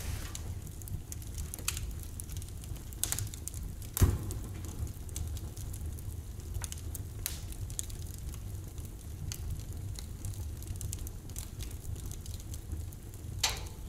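Wood fire burning in a fireplace firebox: a steady low rumble with scattered sharp crackles, the loudest about four seconds in.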